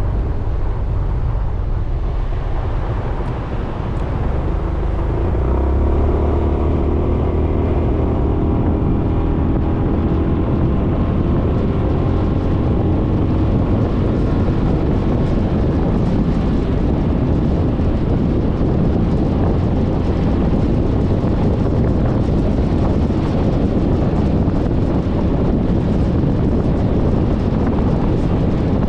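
Suzuki Burgman 400 scooter riding on the road, its single-cylinder engine and wind rush on the bike-mounted camera's microphone. The sound dips briefly about three seconds in, then grows louder as it speeds up and runs on steady.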